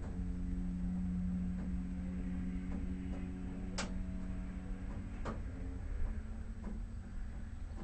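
Shelby GT350's V8 idling steadily with the car stationary, a low even rumble, with a few sharp clicks over it, the clearest about halfway through.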